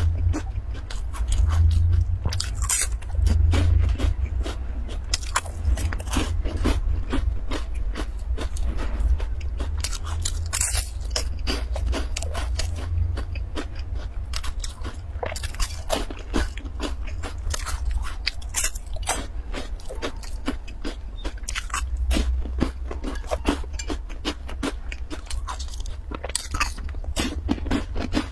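Close-up crunching and chewing of crisp oat chocolate bars: many quick, irregular crunches as the pieces are bitten and chewed, over a steady low hum.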